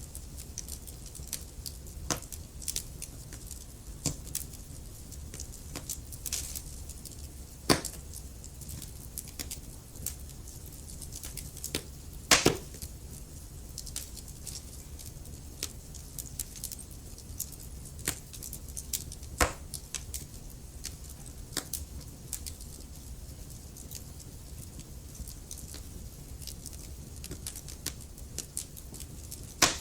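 Wood fire crackling in a fireplace: a steady run of small snaps and ticks, with a few louder pops of burning wood standing out, over a low steady hiss of the flames.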